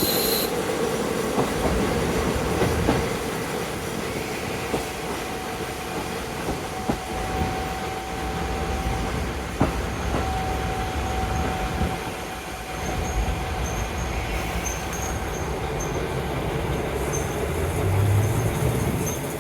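Inside a KiHa 40 diesel railcar running with a window open: steady rumble and wind noise, wheels clicking over rail joints, and a thin, steady squeal from about seven to thirteen seconds in.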